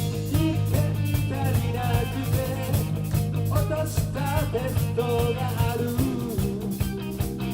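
Live rock band playing an upbeat, ska-like passage: drum kit keeping a steady beat over a bass line, with a wavering melodic lead line on top.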